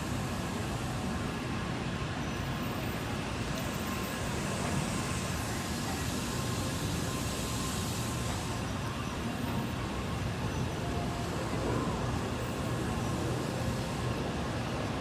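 Steady low rumbling vehicle or machinery noise, with no distinct events.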